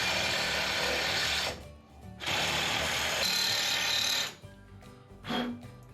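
Cordless power saw cutting the exhaust tailpipe: two long runs with a short pause between them, then a brief burst near the end.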